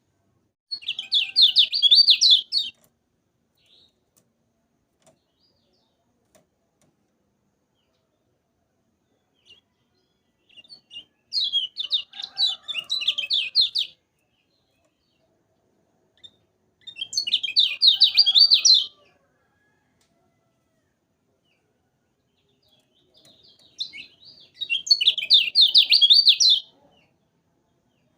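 Kecial kuning singing: four rapid, high, chattering song phrases of about two seconds each, separated by several seconds of quiet.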